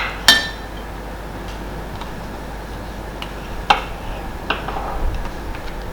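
Kitchen utensils clinking and knocking against a bowl and chopping board. A sharp, ringing clink comes just after the start, then a handful of irregular taps, the loudest a little before four seconds in.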